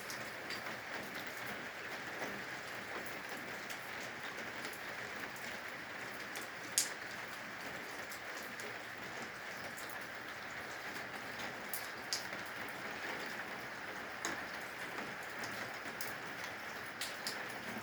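Steady rain with water dripping from the eaves: a constant hiss of rainfall with scattered sharp drops striking a surface, one louder drop about seven seconds in.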